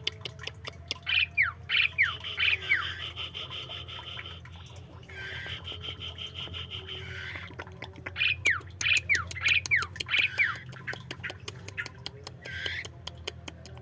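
Caged songbirds calling: two runs of quick falling whistles, with many short sharp chips in between, over a steady low hum.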